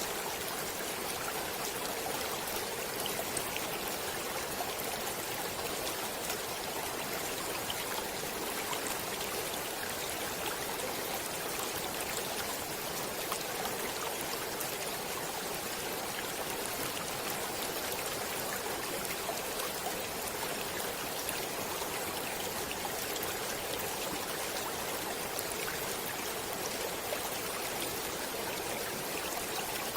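Stream water flowing steadily, an even rushing with many small splashes and trickles through it.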